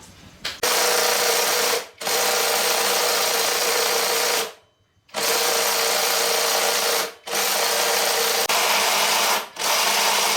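A power tool running in five runs of one to two and a half seconds each, stopping briefly between them, with a steady high whine under a loud hiss.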